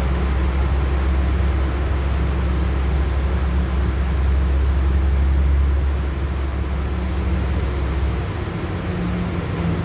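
LiAZ-6213.65 articulated city bus under way, heard from inside the cabin: a steady low engine hum over road and tyre noise. The engine eases off about six seconds in, and the deepest part of the hum drops away near the end.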